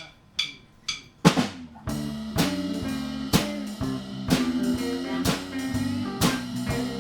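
A count-in of sharp clicks, about two a second, then a live blues band comes in together about a second in with a loud drum hit: drum kit, guitar and bass playing at a steady beat.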